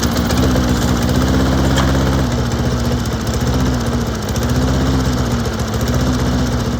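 Snapper 6HP 21-inch gas lawn mower's single-cylinder engine running steadily after being revived with a new carburetor and spark plug. Its speed dips slightly every couple of seconds.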